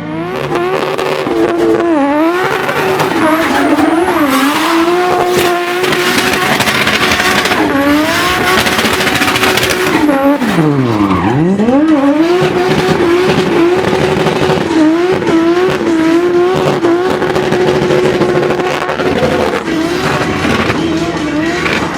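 Nissan R33 Skyline drift car held at high revs, the engine note wavering with quick dips as the throttle is worked. About ten seconds in it drops sharply and climbs straight back up. Tyres squeal and skid throughout, loudest about six to ten seconds in.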